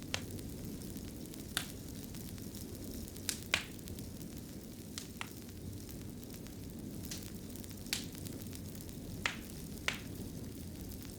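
Wood fire in a fireplace crackling: a steady low rumble with sharp pops every second or so, irregularly spaced, the loudest a double pop about three and a half seconds in.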